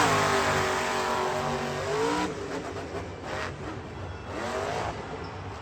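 Monster truck engine revving, its pitch dipping and climbing again twice as the throttle is worked, growing fainter toward the end.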